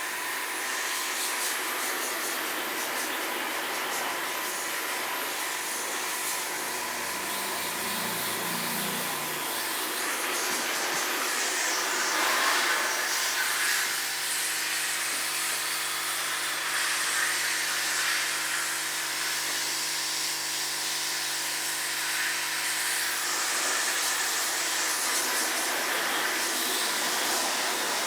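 High-pressure water jet spraying into a Daikin split air conditioner to flush the dust out of it, a steady hiss of spray. About halfway through, a steady motor hum joins in for roughly ten seconds.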